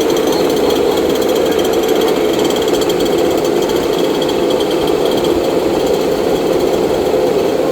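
Two-stroke petrol engines of large-scale 1/5 RC off-road cars running steadily with a rapid, buzzing beat, as the cars come in after the race.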